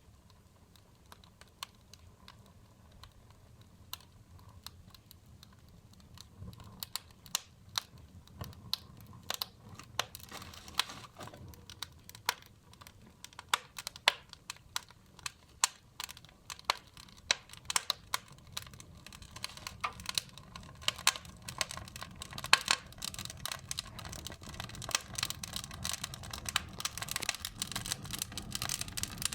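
Wood fire burning in a fireplace, crackling and popping: sparse snaps at first, growing denser and louder as it goes on, over a low steady rumble.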